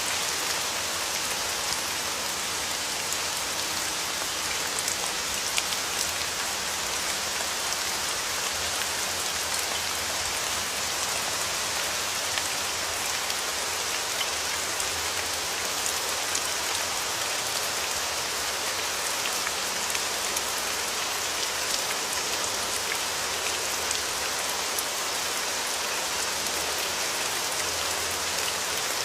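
Steady rain falling and pattering on a surface, an even hiss with scattered sharper drop hits.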